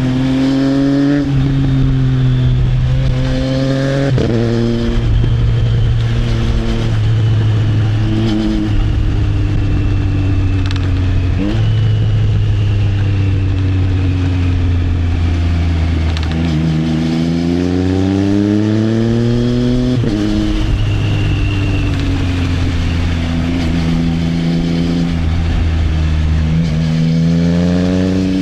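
Triumph Trident 660's three-cylinder engine through an Arrow exhaust, riding under load: its pitch climbs under throttle and drops sharply at each gear change, several times over.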